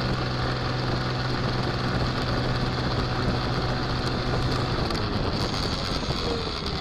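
Car driving, as picked up by a dash camera: steady engine and road noise with a low hum that stops a little under five seconds in.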